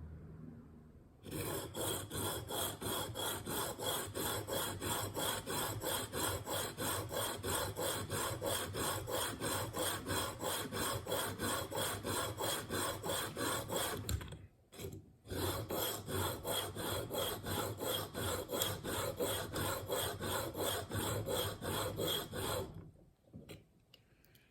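Coarse 220-grit diamond sharpening stone stroked back and forth along a steel single-bevel broadhead in a KME sharpening jig, about three even strokes a second, grinding away material to set the bevel. The strokes break off briefly a little past halfway, then resume and stop near the end.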